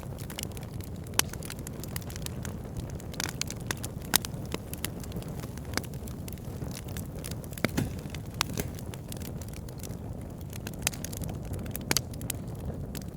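Wood fire burning: a steady low rumble with frequent, irregular sharp crackles and pops from the burning logs.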